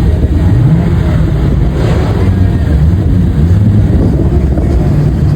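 Car engine running loudly, its pitch rising in a brief rev about half a second in and then holding steady.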